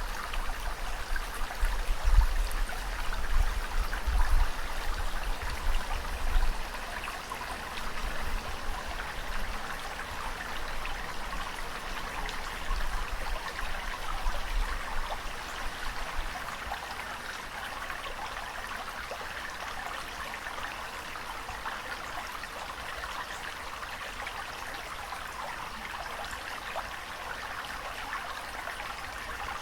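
Water rushing steadily, a continuous even hiss with uneven low rumbles through the first six seconds.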